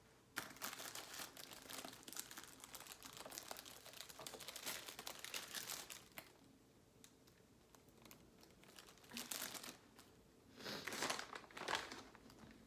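Plastic packaging crinkling as it is handled, close to the microphone: a long stretch of crackling, then two shorter bursts near the end.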